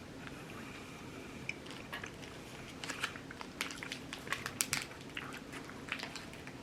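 Close chewing of a bite of Cookie Crush chocolate: a run of small crunches and crackles starting about a second and a half in, thickest in the middle.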